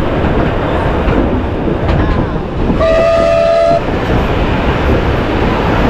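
Passenger train running: steady rumble and clatter of the carriage wheels on the rails, heard at an open carriage window. About three seconds in, the locomotive's whistle sounds one steady blast lasting about a second.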